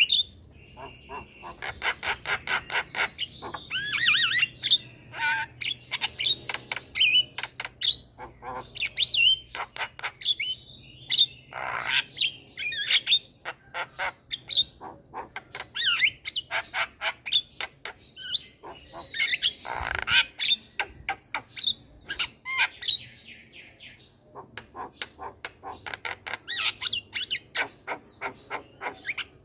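Javan myna (jalak kebo) singing in a busy run of rapid clicks, harsh squawks and short whistled notes, with brief pauses between phrases.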